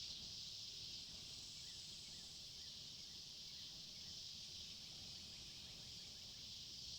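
Faint woodland ambience: a steady high-pitched insect chorus over a low wind rumble, with faint short chirps repeating about twice a second.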